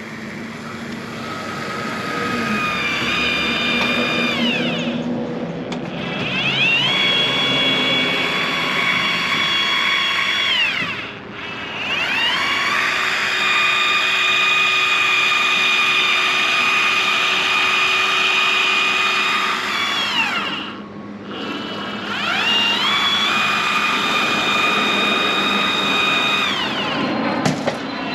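Powered urethane caulking gun (Power Push 6000) whining as it dispenses a bead of windshield urethane. It runs in four stretches, the third the longest, its pitch rising as the motor spins up and falling each time it stops.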